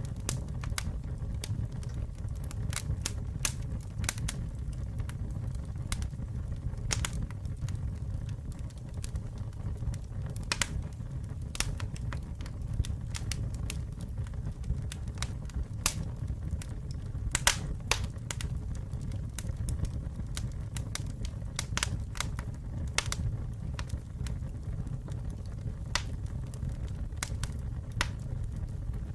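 Campfire burning with a steady low rumble of flames and irregular sharp crackles and pops from the burning wood.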